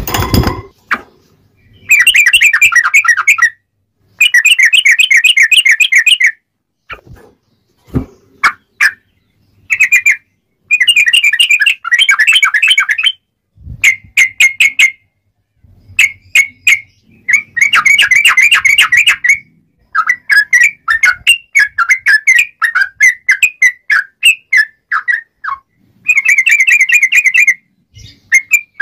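Yellow-vented bulbul (trucukan) singing in repeated bursts of fast, bubbling chatter, each a second or two long with short pauses between, breaking into shorter separate sharp notes in the second half. A sharp click right at the start.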